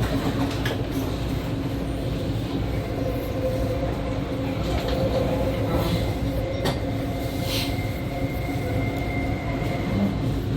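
Running sound of an E2 series Shinkansen heard from a car vestibule as it slows on the approach to its terminal. A steady rumble carries a low hum from the Mitsubishi IGBT inverter and traction motors, with a few sharp clicks from the wheels over rail joints or points.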